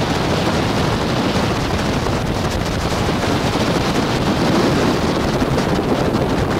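Wind buffeting the microphone aboard a Carver 3207 cabin cruiser running underway, over a steady rush of engine and water.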